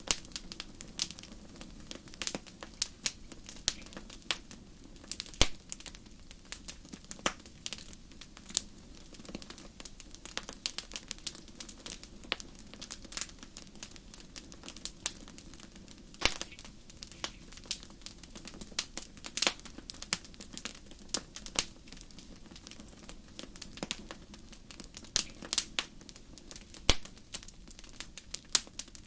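Wood fire burning in a fireplace, crackling with irregular sharp pops over a low steady hiss of flames.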